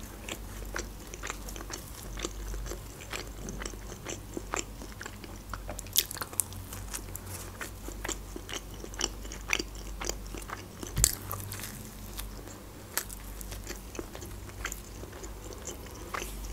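Close-miked chewing and biting of pizza: wet mouth sounds with many small clicks and crunches, and a few louder bites, the loudest about six and eleven seconds in. A faint low hum runs underneath.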